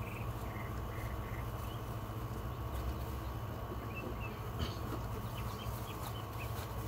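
Birds chirping: a run of short, evenly spaced notes in the first second and a half, then a few scattered chirps, over a low steady rumble. A light knock about halfway through.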